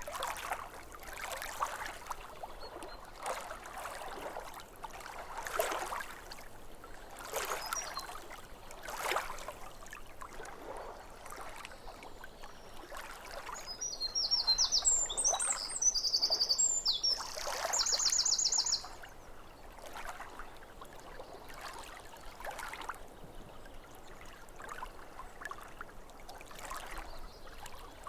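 Small waves lapping at a lake shore in soft washes every second or two. In the middle a bird sings a loud run of high notes ending in a fast trill, the loudest sound.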